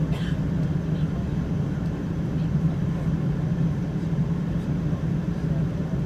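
Steady cabin noise of a Boeing 777-200ER heard from inside the economy cabin: an even engine drone and rumble that holds constant throughout.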